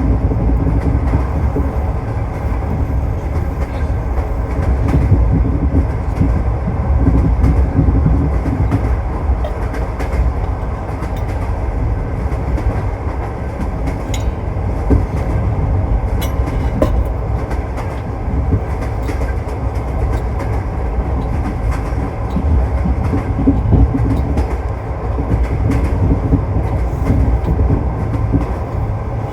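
A train running at speed, heard from on board: a steady low rumble with the clatter of its wheels over the rails.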